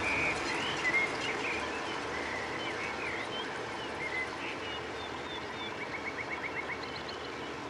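Small birds chirping and calling in short scattered notes over a steady background hiss, with a quick trill of about eight rapid notes about six seconds in.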